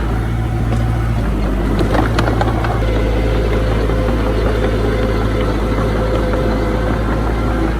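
Diesel engine of heavy earthmoving machinery running steadily, with a few short knocks about two seconds in.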